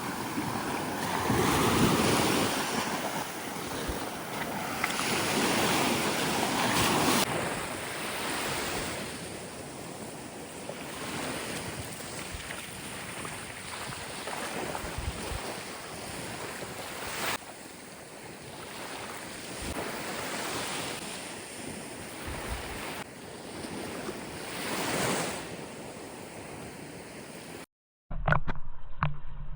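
Sea waves breaking and washing up the beach, the surge swelling and falling back every few seconds. The sound cuts off suddenly near the end.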